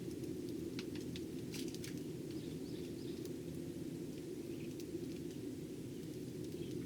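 Eurasian tree sparrows giving short, scattered chirps and ticks over a steady low hum.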